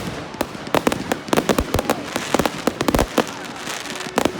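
Fireworks going off: a rapid, irregular run of sharp bangs and pops, bunched in dense clusters, over a steady hiss.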